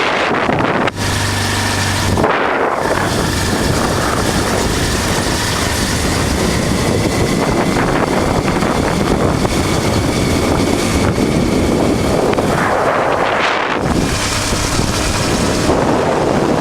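Wind buffeting the microphone of a moving motorcycle, with the 1988 Honda Transalp's V-twin engine running underneath. The noise stays steady throughout, dipping briefly about a second in.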